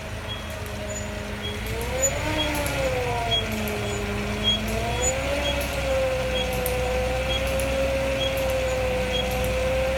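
Toyota Hilux Surf rear brake squealing, a pitched tone that wavers up and down twice before settling into a steady note, the abnormal noise the brakes are making. Faint regular ticks repeat under a second apart beneath it.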